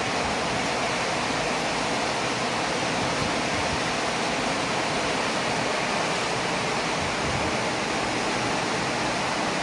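Torrential rain pouring down in a steady, heavy hiss.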